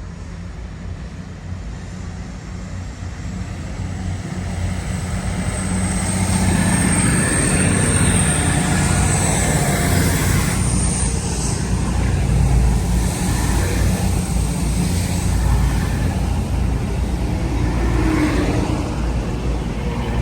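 A train running through, its low rumble building over the first six seconds and then staying loud, with a faint, thin high squeal from about six to eleven seconds in.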